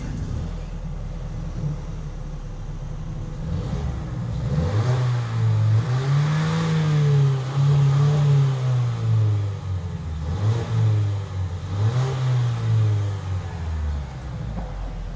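Mercedes-Benz GLA 200's turbocharged four-cylinder petrol engine, heard from inside the cabin, pulling hard under acceleration. After a few seconds of low steady running, its note climbs and falls away twice as the car accelerates through the gears.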